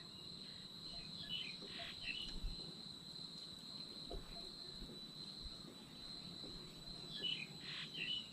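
Insects, such as crickets, keeping up a steady high-pitched trill, with short chirping calls, likely from a bird, heard twice: about a second in and again near the end.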